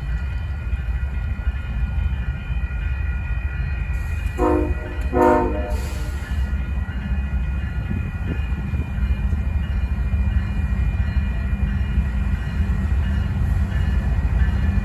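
Train running with a steady low rumble; about four and a half seconds in, its horn sounds two short blasts, each a chord of several notes.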